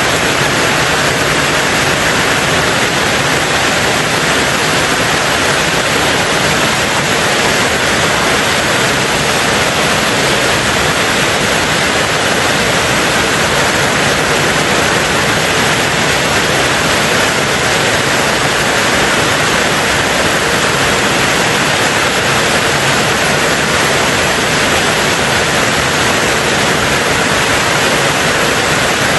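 Steady heavy rain on a tin roof, heard as a dense, even hiss with no separate drops standing out.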